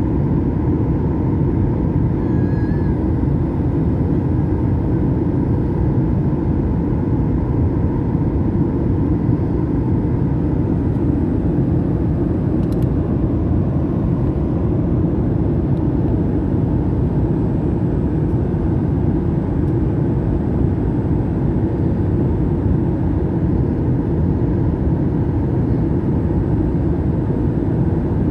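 Steady low rumble of engine and airflow noise inside an airliner cabin.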